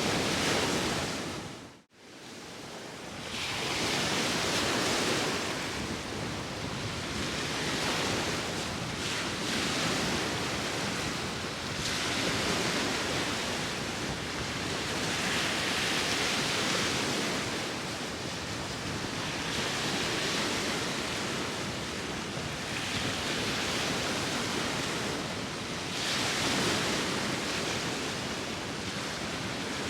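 Sea waves washing on the shore under wind, a steady rush that swells and ebbs every three to four seconds. About two seconds in, the sound briefly cuts out and fades back in.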